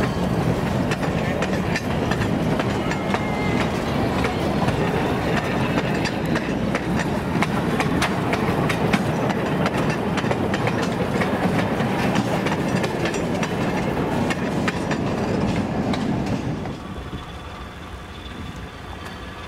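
Cars of a slow excursion train rolling past close by: a steady rumble of steel wheels with frequent clicks as they cross rail joints. The sound drops away abruptly near the end.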